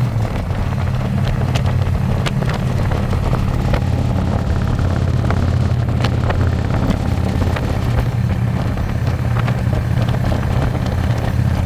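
Harley-Davidson Electra Glide's V-twin engine running steadily at cruising speed, heard from the pillion seat, with wind buffeting the microphone.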